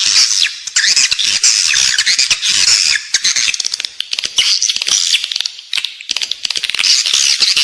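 Recorded calls of edible-nest swiftlets: dense, high, rapid chirping twitters mixed with quick clicking, with almost no low sound. It is a lure recording for drawing swiftlets into a nesting building.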